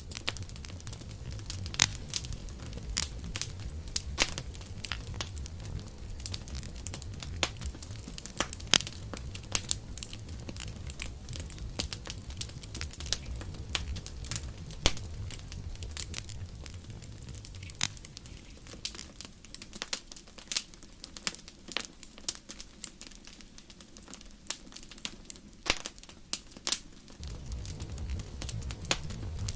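Campfire burning: wood crackling and popping in sharp, irregular snaps over a low rumble of the flames. The rumble thins out for a while past the middle and returns near the end.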